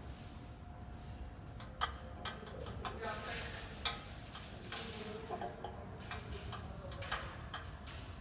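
Irregular sharp clicks and taps, a second or so apart, over a low background hum with faint voices.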